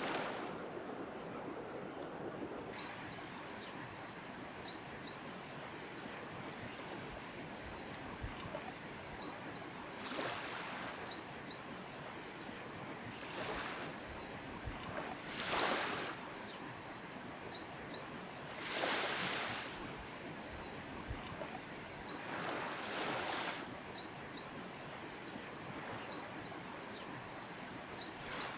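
Small waves washing in on a beach every few seconds over a steady wash of surf noise. From about three seconds in, a thin steady high-pitched drone with faint chirps runs behind them.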